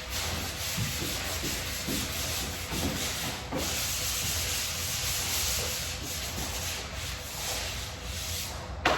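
Drywall being sanded by hand: steady, uneven scraping strokes of abrasive on the wall surface. A single sharp knock comes just before the end.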